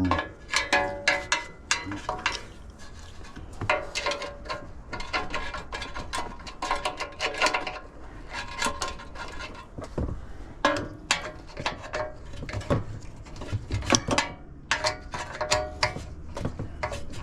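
Irregular metallic clinks, clanks and ratcheting of hand tools on the sheet-metal and fan-motor parts of an AC condenser, many of the knocks ringing briefly.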